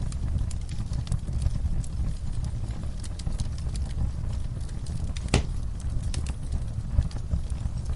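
Wood fire crackling in a fireplace: a steady low rumble of burning with frequent small pops and snaps, and one louder pop about five seconds in.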